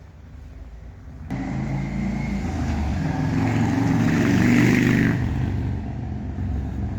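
A car engine passing close by on the street, coming in suddenly about a second in, loudest past the middle and then easing off.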